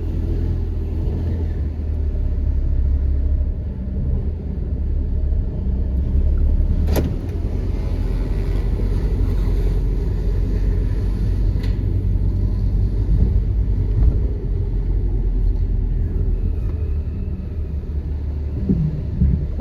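Car running with a steady low rumble from the engine and tyres on concrete. There is a sharp click about seven seconds in and a fainter one a few seconds later.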